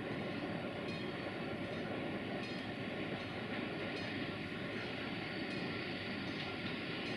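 060-EA (LE 5100 kW) electric locomotive hauling a freight train on approach: a steady rumble of wheels on rail with a steady hum and a few faint clicks.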